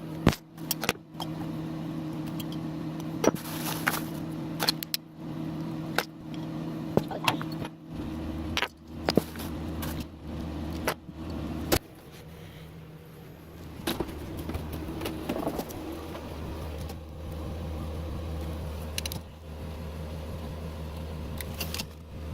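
A string of sharp clicks and clacks, like small hard objects being handled and set down, over a steady electrical hum. The hum drops to a lower-pitched hum about halfway through.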